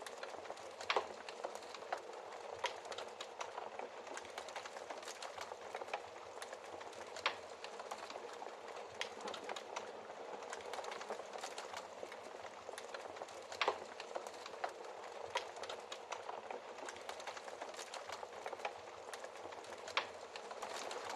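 Wood fire crackling in a fireplace: a steady soft hiss with constant small crackles and a few louder pops.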